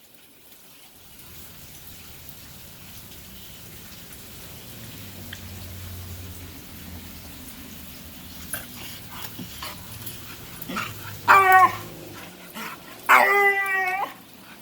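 A dog making strange vocal noises: two loud whining, yowling calls near the end, the second one longer, over a low steady rumble that runs through most of the stretch.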